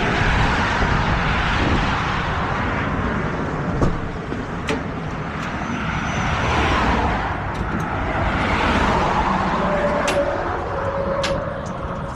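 Road traffic passing on a highway, a steady rush of noise that swells and fades as vehicles go by, with a few short clicks along the way.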